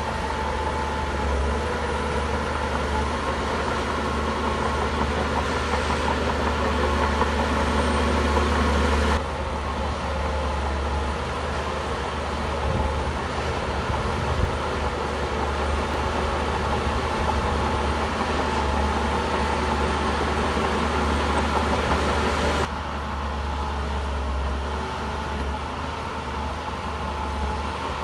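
Shantui bulldozer's diesel engine running steadily as the dozer works, with a strong low drone. The sound shifts abruptly twice, about nine seconds in and about five seconds before the end.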